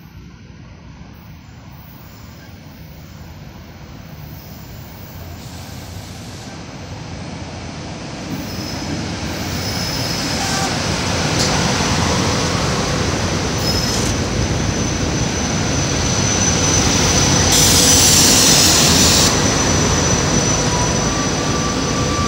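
SEPTA Silverliner IV electric multiple-unit commuter train pulling into a station, its rumble of wheels and running gear growing steadily louder as it comes alongside. From about ten seconds in, a thin, steady high squeal rides over it as the train brakes to a stop. A brief, loud high-pitched burst comes near the end.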